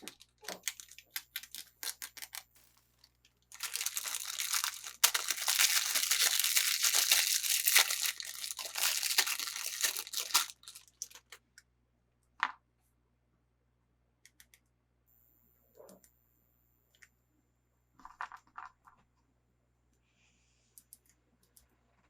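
Toy packaging being opened by hand: scattered crinkles at first, then several seconds of dense crinkling and tearing, followed by a few sharp clicks and faint rustles.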